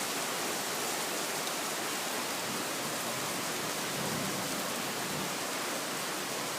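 Heavy thunderstorm rain pouring down, a steady, even hiss of downpour.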